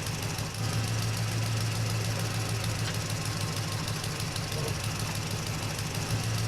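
Vehicle engine idling steadily with an even low hum.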